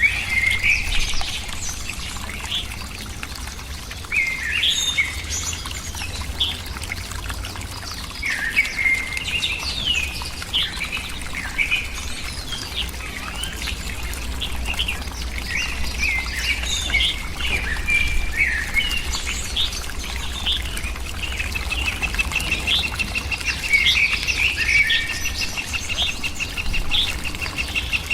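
Birds chirping and calling repeatedly in short, quick notes, joined about three quarters of the way through by a rapid, even trill, over a steady low rumble.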